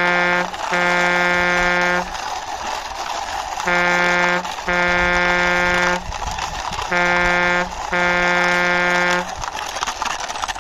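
A truck-style horn honking in a repeating pattern, a short honk followed at once by a longer one, three times about three seconds apart, over a steady hiss.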